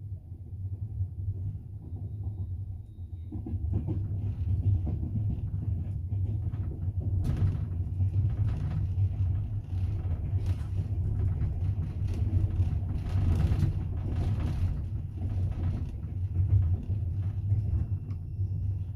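Passenger train carriage running at speed: a steady low rumble with the clatter of wheels over the rails, the knocking heavier between about 7 and 15 seconds in.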